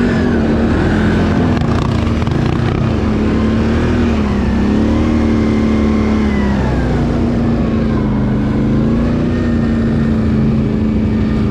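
Can-Am ATV engine running steadily under way, its pitch dipping and climbing back a few times as the throttle is eased and opened.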